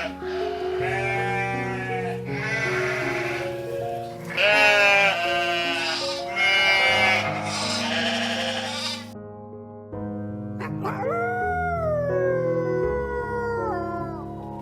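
Bleating farm animal calling repeatedly, five or six bleats of about a second each, over background music. About ten seconds in comes a single longer call that slides down in pitch.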